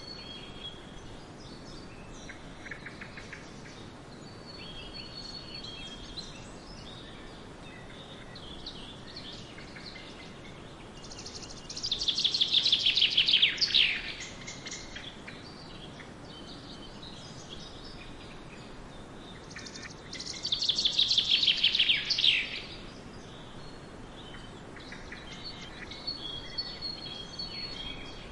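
Several songbirds singing over a steady soft hiss, with scattered faint chirps throughout. One bird sings a loud rapid trill that falls in pitch, once about twelve seconds in and again about twenty seconds in, each phrase lasting a couple of seconds.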